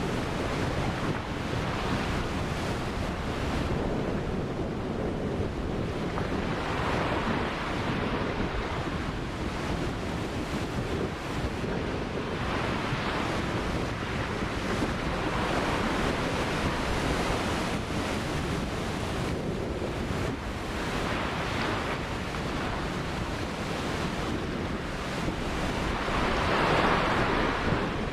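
Ocean waves breaking and washing on the shore, rising and falling every few seconds, with the biggest break near the end, over a steady low rumble of wind on the microphone.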